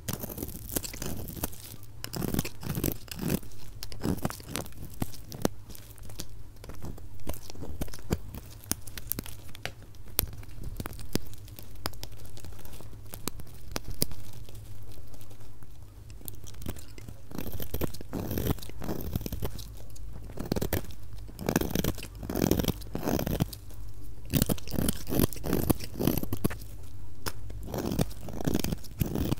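Knife cutting through dry, crumbly soap, with a dense run of irregular crunching and crackling strokes. It is sped up to double speed.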